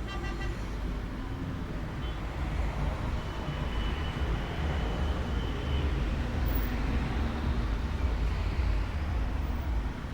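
Steady outdoor rumble and hiss, heaviest in the low end, with a thin high whistling tone that holds for about two and a half seconds in the middle.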